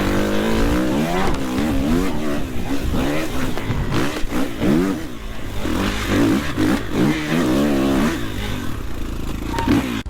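Dirt bike engine revving, its pitch rising and falling in repeated quick throttle blips.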